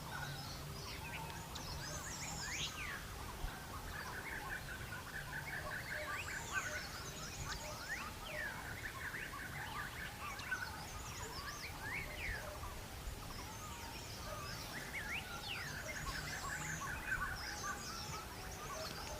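Several wild birds calling in forest: a rapid, even trill that comes twice, with many short rising and falling whistled notes over and between the trills.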